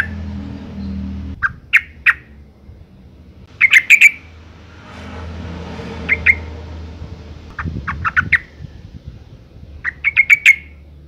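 Female yellow-vented bulbul (trucukan) calling: short bursts of three to five quick, sharp notes, repeated every second or two. A female in breeding condition calling for a male.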